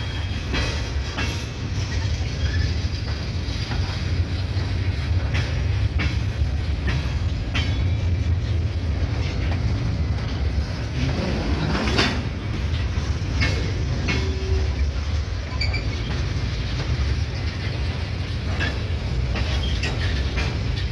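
Freight train moving slowly: a steady low rumble of the diesel locomotive with scattered clanks and clicks from the cars and wheels, and one louder clank about twelve seconds in.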